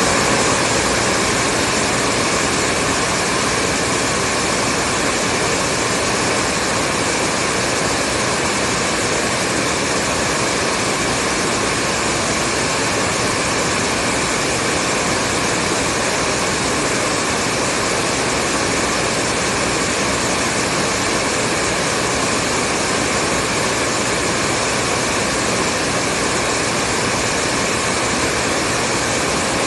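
Hair dryer running steadily on one setting: a continuous, even rush of blown air with a faint steady motor whine on top.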